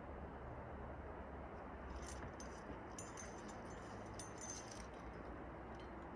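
Climbing gear clinking: light metallic jingles and clicks of carabiners and cams, a few times between about two and five seconds in, over a faint steady hiss.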